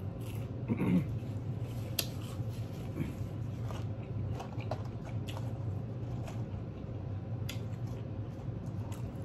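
Close-miked chewing and lip smacks of a person eating chicken nuggets and fries, with scattered light clicks of fingers picking at fries and paper packaging, over a steady low hum. A brief murmur of the voice comes about a second in.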